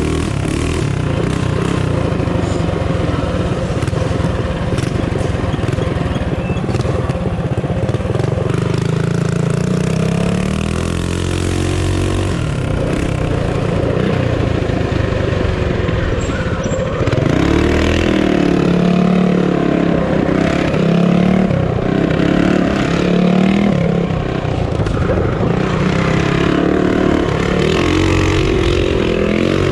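Hopped-up single-cylinder minibike engine running under way: fairly steady for the first ten seconds or so, then revving up and down again and again through the second half as the throttle is worked.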